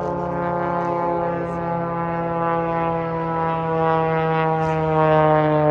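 Aircraft flying past, its engine drone a steady stack of tones that slowly falls in pitch and grows a little louder near the end.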